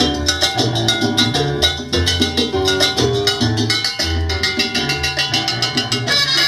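Salsa band playing an instrumental passage without vocals, a bass line and Latin percussion driving a steady rhythm.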